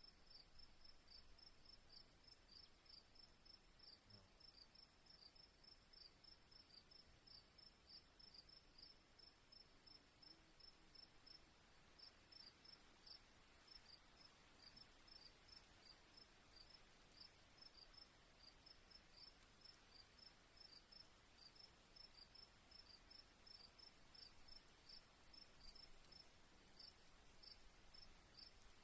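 Faint crickets: one holds a continuous high trill while another chirps in short regular pulses, about three a second.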